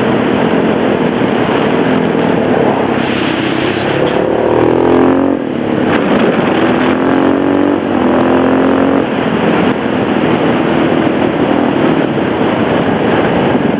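KTM LC4 single-cylinder four-stroke supermoto engine pulling hard under a constant rushing noise, its note climbing again and again with brief drops between the climbs, about 5 and 10 seconds in.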